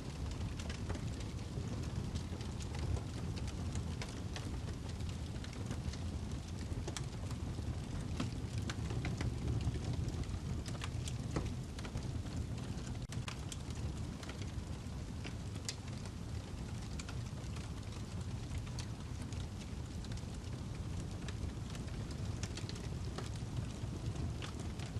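Wood fire burning in a fireplace: a steady low rush of flames with frequent sharp crackles and pops from the burning log, irregularly spaced.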